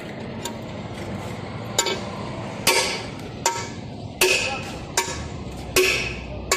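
Hammer blows on a metal drift, driving a valve guide in a diesel cylinder head. Starting about two seconds in, there are about seven sharp strikes, one every three-quarters of a second, each with a short metallic ring.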